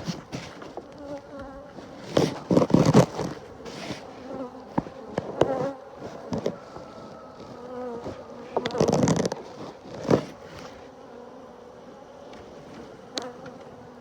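Honeybees buzzing around an open hive, a steady hum, with loud bursts of rustling and handling noise a couple of seconds in and again past the middle.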